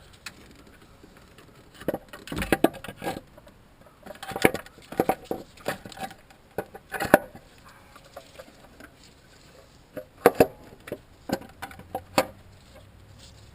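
Metal tools and engine parts clinking and knocking in short, irregular clusters, the sound of hands-on work putting an engine back together.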